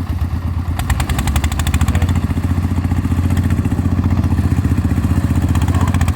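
Engine-driven rice threshing machine running steadily, its engine chugging in rapid, even pulses. The sound grows a little louder about a second in.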